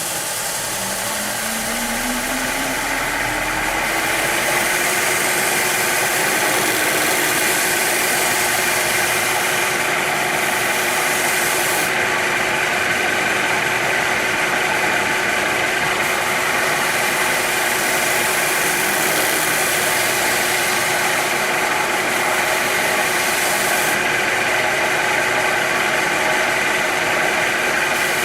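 Electric motor of a power tool spinning up, its whine rising in pitch over the first few seconds, then running at a steady speed.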